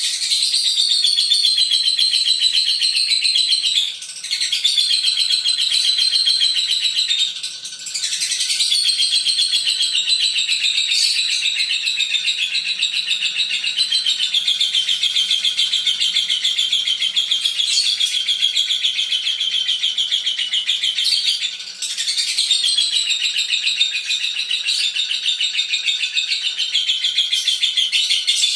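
Lovebird singing a long ngekek: a rapid, high-pitched chattering trill held for many seconds without stopping, broken only by a few brief pauses.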